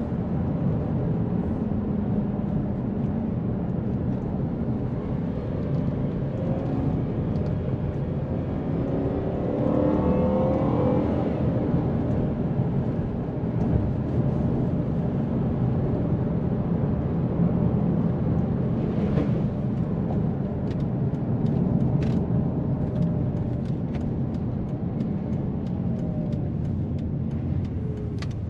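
Volvo S80's 4.4-litre V8 heard from inside the cabin while driving, a steady engine drone under tyre and road noise. About a third of the way in, the engine note rises as the car accelerates, then settles. Light, sharp ticks come through over the last third.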